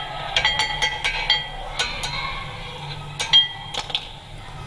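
Light metallic clinks and taps from steel brake-pad clips being handled and fitted on a disc brake caliper: about ten sharp clicks that ring briefly, the loudest about three seconds in. The clip is being bent back so it no longer rubs on the brake disc and squeals.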